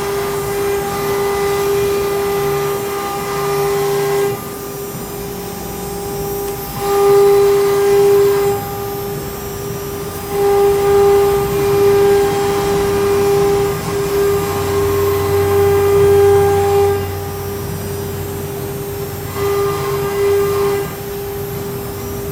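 CNC router spindle cutting aluminium composite panel, a steady high whine throughout. A hiss of cutting noise over the whine drops away and comes back every few seconds as the bit moves along the letter shapes.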